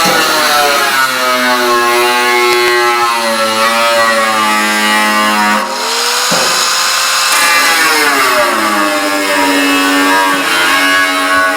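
Electric power tool motor working into the steel of a barrel. Its pitch sags under load and recovers over and over, with a short drop and climb back about halfway through.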